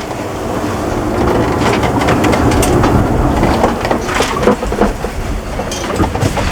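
Below deck on a sailing yacht rolling at sea: a steady rushing rumble of water along the hull, with irregular knocks and rattles throughout.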